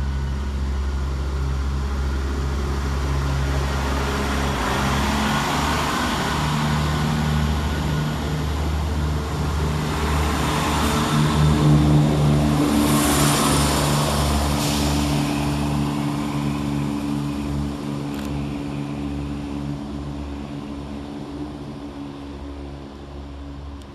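Scotrail Class 170 Turbostar diesel multiple unit running through the station, its diesel engines humming steadily; it is loudest about halfway through, then fades.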